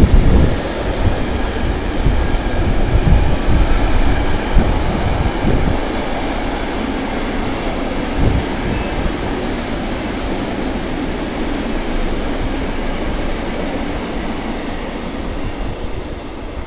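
Container wagons of a long freight train rolling past on the rails: a low rumble with knocks from the wheels in the first few seconds, settling into a steady rolling noise that slowly fades as the last wagons go by.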